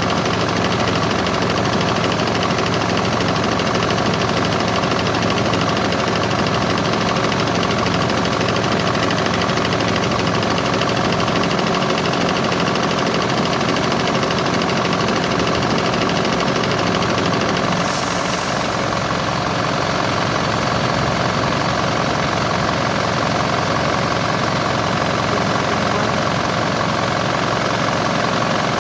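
An engine idling steadily, with one brief sharp sound about eighteen seconds in.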